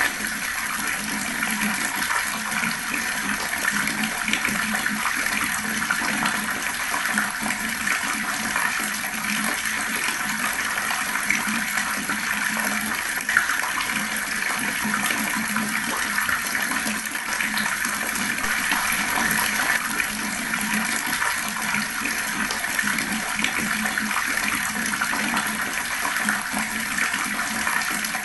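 Water running steadily from a tap, a slow stream splashing into the basin below.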